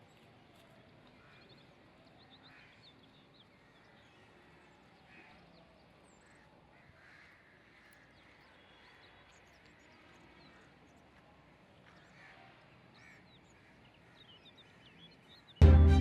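Faint outdoor ambience with scattered bird calls and chirps. Loud music starts suddenly near the end.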